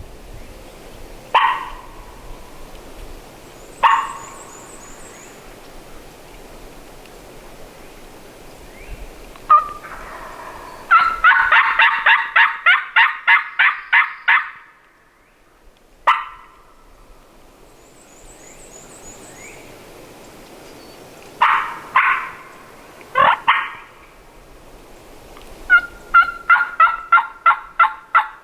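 Turkey yelping: runs of evenly spaced yelps, about a dozen in a row and later about eight, with single sharp calls in between.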